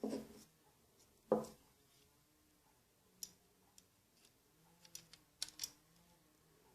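Small clicks and taps of spinning reel parts and tools being handled during disassembly: two louder knocks in the first second and a half, then a scatter of lighter clicks.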